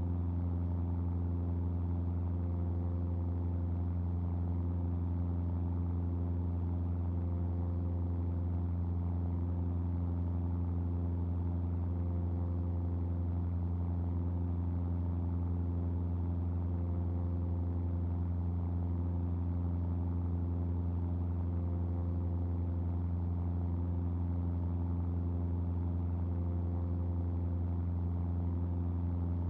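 Steady drone of a Cessna R182 RG's six-cylinder Lycoming piston engine and propeller in cruise flight: a strong low hum with a stack of even tones above it, holding constant throughout.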